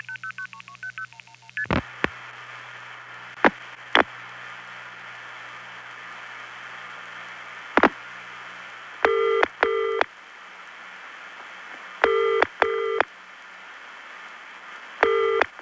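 A 1970s long-distance call to the Bahamas over the old analog phone network: a fast run of two-tone signalling beeps, then switching clicks over steady line hiss. About nine seconds in, the British-style normal double ring begins, two short ring bursts repeating about every three seconds, three times.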